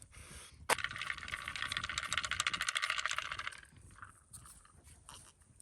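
A sharp click, then about three seconds of fast, dense metallic rattling that stops suddenly.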